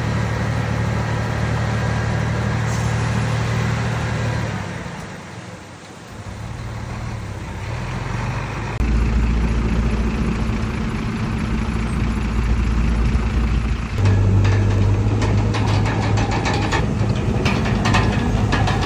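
Heavy diesel engines of earthmoving machinery running steadily. The engine note changes abruptly about nine and again about fourteen seconds in, and from then on there are many quick clanks and rattles.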